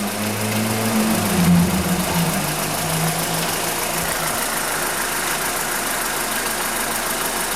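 Volkswagen Spacefox's 1.6 8-valve EA111 engine idling cold, a steady hum whose pitch rises slightly about a second in and then settles a little lower.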